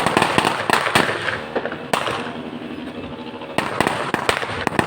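Fireworks going off: a rapid run of sharp bangs and crackles, which eases off about two seconds in and comes back with a loud bang near the end.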